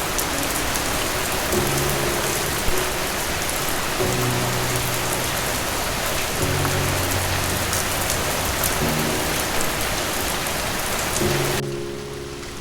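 Steady rain falling, an even hiss of drops, with soft background music of held low notes that change every couple of seconds. Near the end the rain cuts off suddenly, leaving only the music.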